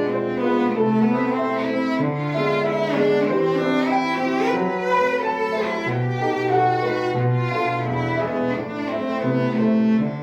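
Cello playing a melody with piano accompaniment: a moving bowed line with quick slides between notes over held low piano notes.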